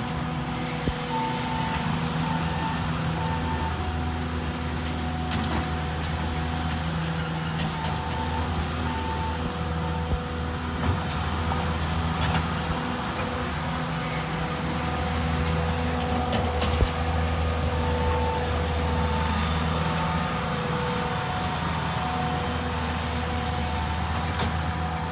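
Bobcat T750 compact track loader's diesel engine running steadily while grading, the load swelling and easing, with a steady whine over it. A backup alarm beeps in short runs three times, at the start, about eight seconds in and about eighteen seconds in.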